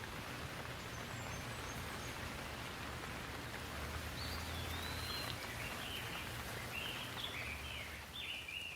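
Steady rain falling, a constant hiss that swells slightly at the start, with a low rumble underneath. From about halfway through, a bird calls with a quick series of short chirps.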